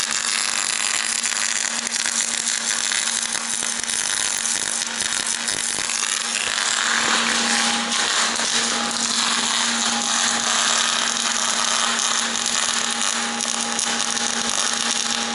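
Milling machine cutting steel: a steady, loud machining noise, with a low hum and a ringing tone joining it about halfway through.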